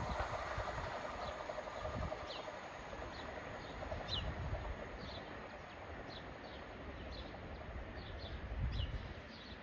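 ScotRail Class 170 Turbostar diesel train fading away as it runs off down the line, leaving a low rumble that dies down. Small birds chirp over it with many short falling notes.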